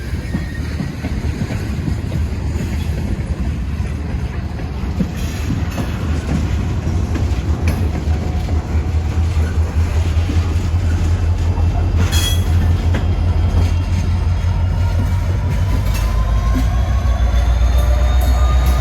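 Train passing close by: a steady rumble and clatter of steel wheels on the rails that grows louder toward the end, with a sharp clank about twelve seconds in. Faint wheel squeal slides in pitch in the last few seconds.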